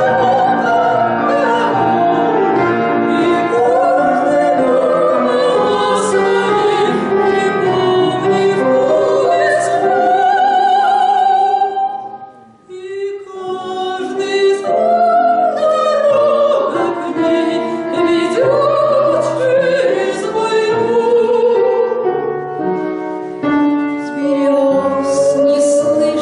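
Classical-style female singing with piano accompaniment, a short break in the singing about twelve seconds in.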